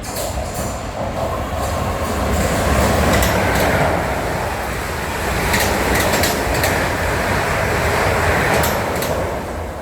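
Train passing on the tracks: a loud steady rumble of wheels on rail, with several sharp clicks from the wheels over the rails in the second half.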